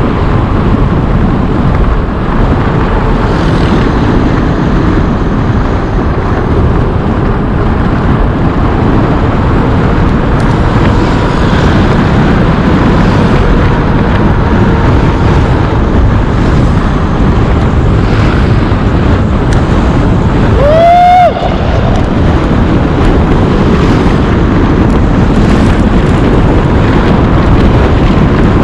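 Wind rushing over the camera microphone as the bicycle descends, a loud, steady rumble of noise. About two-thirds of the way through, a short pitched call rises and holds for under a second.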